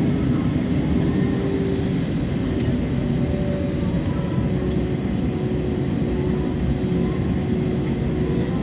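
Cabin noise of an Airbus A320-family airliner on takeoff: the jet engines running at high thrust under a loud, steady rush, with a steady hum that drops slightly in pitch about two seconds in.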